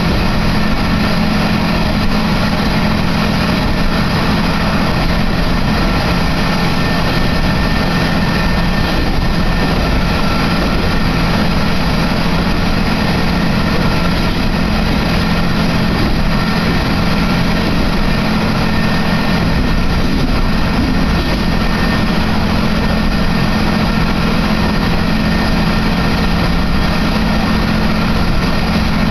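Steady running noise inside the cabin of a diesel railcar under way: a low, even engine hum mixed with wheel and rail noise.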